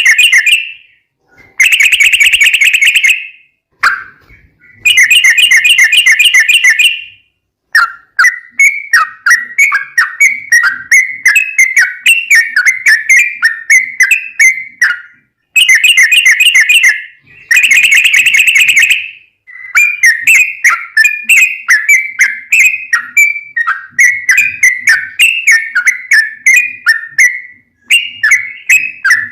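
Yellow-vented bulbul (trucukan) singing. Bursts of very fast rolling trills (the long 'ropel' phrases) of a couple of seconds each alternate with longer runs of quick bubbly chattering notes, several a second.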